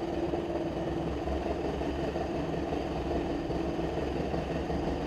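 Johnson 25 hp two-stroke outboard motor running steadily in gear at low speed. It runs smoothly, with its carburetor adjusted so that it no longer lean-pops at idle.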